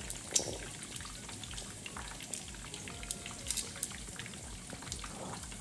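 Chicken feet deep-frying in hot oil: a light sizzle with scattered sharp pops and crackles, the loudest about a third of a second in.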